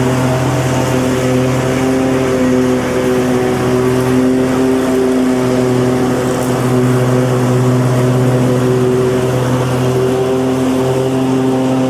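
Lawnmower engine running steadily at a constant speed, with a rushing noise over the engine hum.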